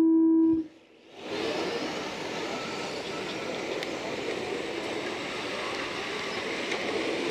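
A short electronic start tone sounds, and about a second later the steady whirring din of the racing trucks running together on the track takes over as the race gets under way.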